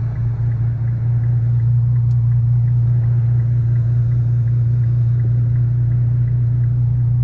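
Infiniti Q50's 3.7-litre V6 running through a loud aftermarket exhaust, a steady low drone at an even pitch with no revving.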